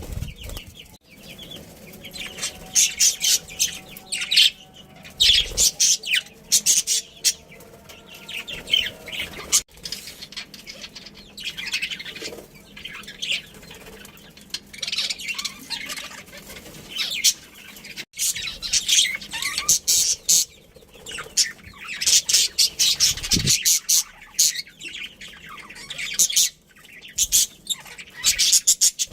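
Budgerigars chirping and chattering in rapid, high-pitched clusters with short pauses between them.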